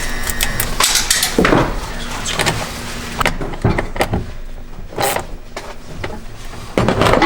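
Irregular knocks, clunks and rustles of parts and tools being handled during work on the vehicle, about half a dozen separate bumps with the loudest near the end.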